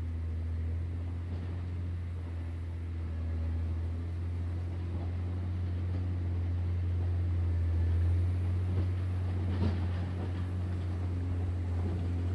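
John Deere 670 motor grader's diesel engine running steadily with a deep, even drone. A few faint knocks come through about nine to ten seconds in.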